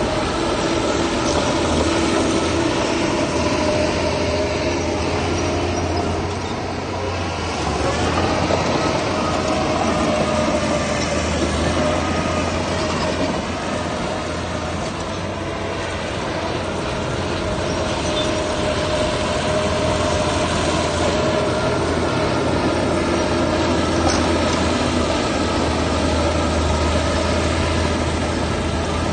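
Heavy diesel engine of construction machinery running steadily under load, with a low hum and a slight rise in pitch about eight seconds in.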